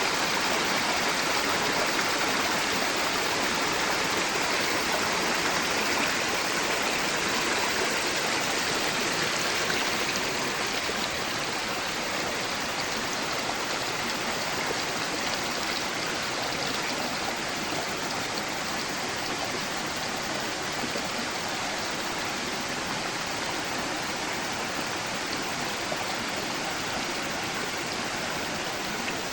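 Forest stream flowing, a steady rush of water that eases slightly about ten seconds in.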